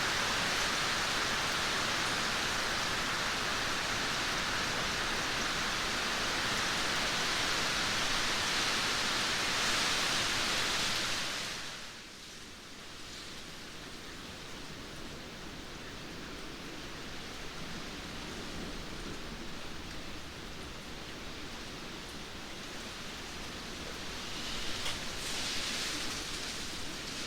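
Steady heavy rain. About eleven seconds in it drops abruptly to lighter, quieter rain, with a few louder drops or splashes near the end.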